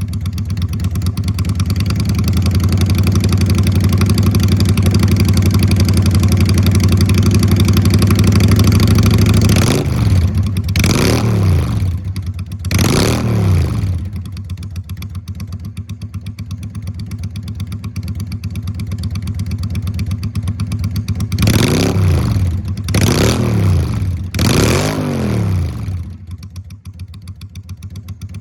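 Honda Steed V-twin with a Marving straight-pipe muffler, running at a raised idle with a deep exhaust note, then revved twice in quick succession. It drops back to idle, is revved three more times, and settles to a low, loping idle near the end.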